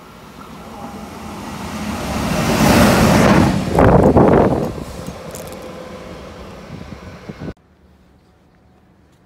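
Train passing through the station at speed: the rumble and rush of the train build to a loud peak about three to four seconds in, fade as it goes by, then cut off suddenly.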